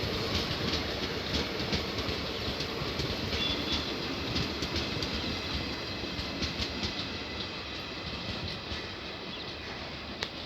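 Passenger train coaches rolling along the track, the wheels clicking over rail joints with a steady rumble, gradually getting quieter.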